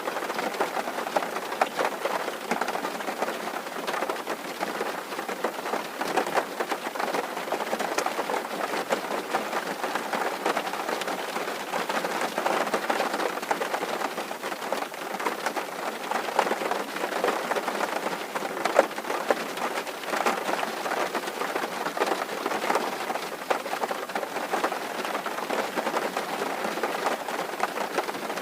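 Steady rain drumming on a tin roof, a dense patter of drops with scattered sharper drop hits.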